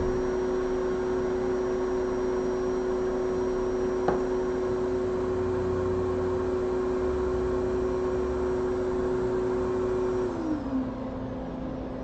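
Hot air rework station blowing steadily, with a light click about four seconds in. A little after ten seconds its fan winds down with a falling pitch and the sound gets quieter.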